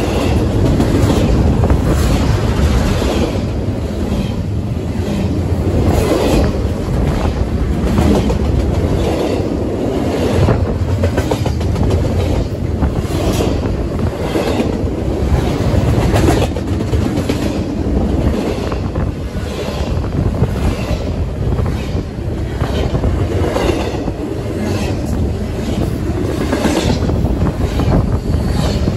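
Double-stack intermodal freight train rolling past close by: a steady low rumble with the clickety-clack of its wheels, clicking over and over.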